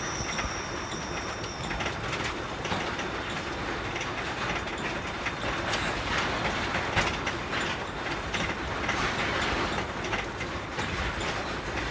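Container truck on the move, heard from the cab: steady engine and road noise with frequent rattles and knocks as the rig runs over the road. A thin high whine stops about two seconds in.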